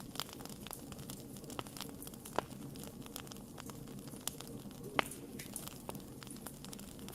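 Wood fire crackling: frequent irregular small pops and snaps over a low steady rumble of burning, with two louder pops about two and a half and five seconds in.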